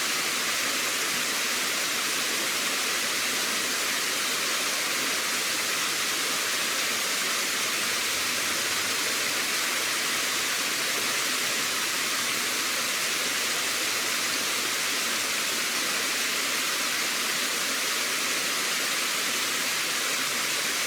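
Steady, unchanging rush of running water, an even hiss with no distinct events.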